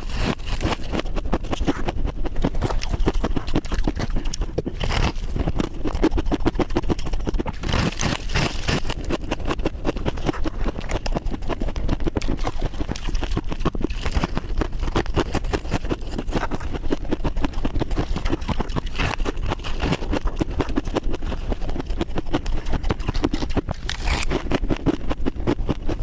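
Ice being crunched and chewed in the mouth: a continuous run of crisp, rapid crunches.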